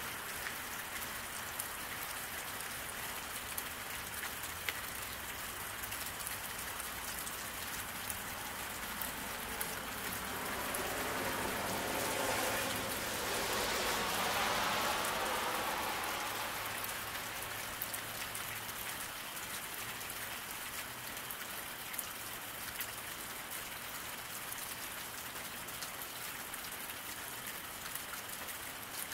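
Steady rain falling on pavement, a continuous hiss with scattered drop ticks. About halfway through, a car passes on the wet road: its tyre hiss swells over several seconds and then fades away.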